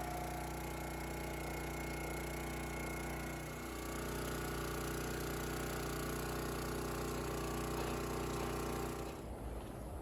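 Engine idling steadily, then cutting off about nine seconds in.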